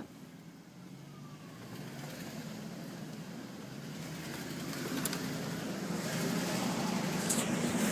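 2004 Dodge Durango's 5.7 L Hemi V8 running, growing steadily louder, with a few faint clicks. The owner says it has developed a ticking that has become louder.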